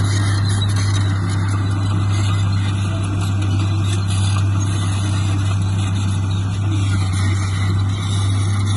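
Diesel engine of heavy earthmoving equipment running steadily with a deep, even hum.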